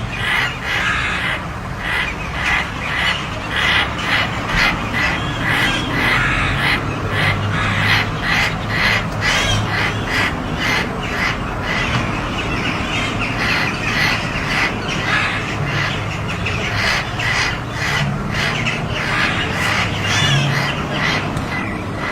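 Crows cawing harshly over and over, one caw quickly following another: alarm calls at a hawk attacking a crow.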